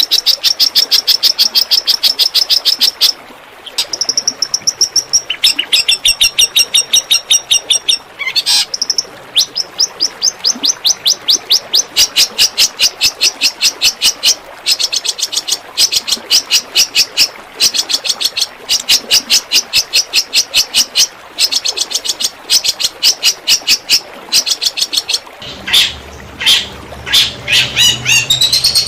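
A songbird's rapid-fire 'tembakan' song, a fast even train of sharp high notes at roughly seven a second, broken by a few short pauses, from a masteran training recording for long-tailed shrikes. A low hum joins near the end.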